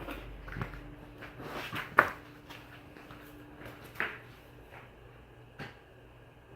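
Hampton Bay Palm Beach ceiling fan running with a faint steady motor hum, broken by four sharp knocks or clicks about every one and a half to two seconds; the loudest comes about two seconds in.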